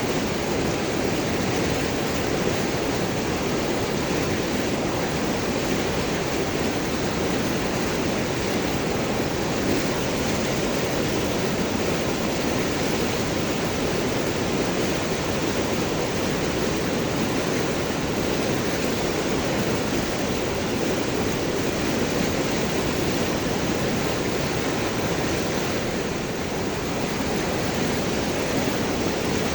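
River water rushing and gurgling over large rocks: a steady, even flow.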